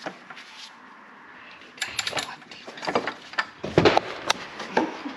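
Tools clattering and clicking as someone rummages through a toolbox for a socket. Irregular knocks begin about two seconds in and come thickest near the end.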